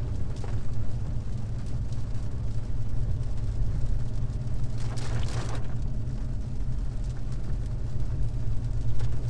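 Steady low rumble of a car driving on a rain-wet road, heard from inside the cabin, with a brief rushing swell about five seconds in.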